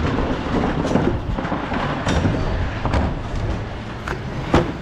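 Mercedes Econic refuse truck being loaded with paper and metal recycling: a low rumbling with scattered knocks and clatter, and a sharp bang near the end.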